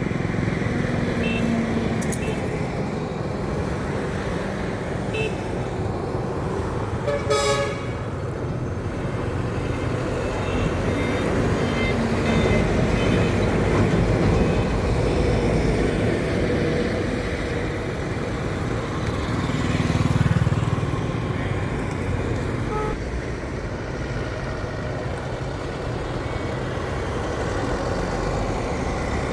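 Road traffic with heavy vehicle engines running past, and a short vehicle horn blast about seven seconds in, with a few fainter toots a few seconds later.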